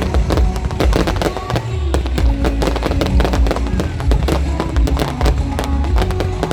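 Fireworks bursting and crackling in rapid, dense succession, with music playing loudly underneath.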